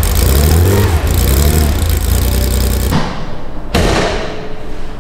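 Air-cooled Porsche 911 flat-six engine running with a deep rumble and revs that rise and fall, cutting off abruptly about three seconds in. A single thud follows, with a hissing fade.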